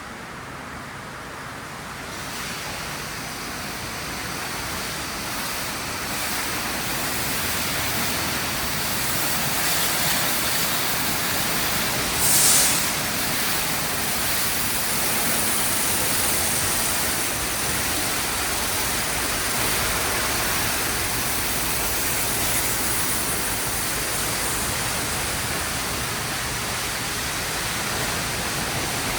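Sonny's tunnel car wash equipment running: a steady rushing hiss of spraying water and blowing air that builds over the first several seconds and then holds, with one brief, louder hiss about twelve seconds in.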